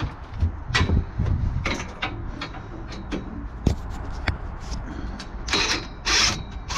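Metal bed frame being pulled apart by hand: a run of irregular sharp metal clicks and knocks over a steady low rumble.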